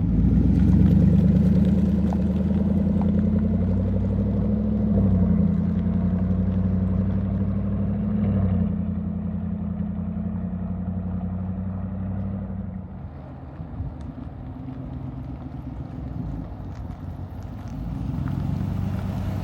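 2020 Chevy Silverado Trail Boss engine and exhaust running steadily through its new quad tips. The note changes about eight seconds in and gets quieter from about thirteen seconds in.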